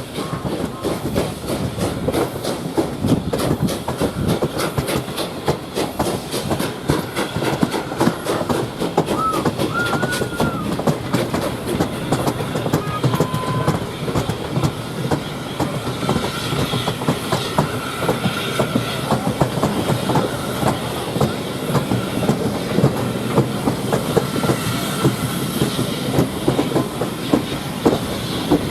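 A train running on the track: a continuous dense clatter of wheels and rattling rolling stock, with a couple of brief faint squeals about a third of the way in.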